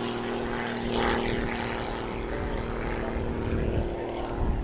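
Propeller aircraft engine droning steadily at an even pitch, most likely the jet-assisted Pitts Special biplane's piston engine; the lower tone fades out near the end.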